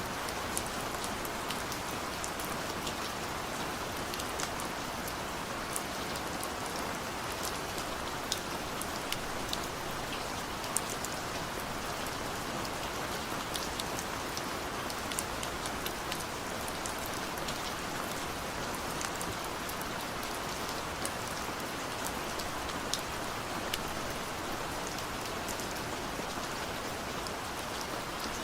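Steady heavy rain falling in a forest, an even hiss with scattered sharp drop ticks.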